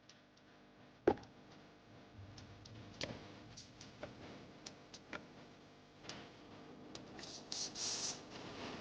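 Scattered clicks and light knocks of small parts being handled, with one sharper knock about a second in. Near the end comes a brief scraping or rubbing.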